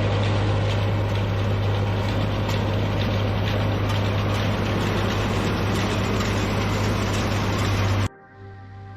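Farm tractor running steadily while baling hay, a strong constant low hum under a dense machine rattle and hiss. It cuts off abruptly about eight seconds in.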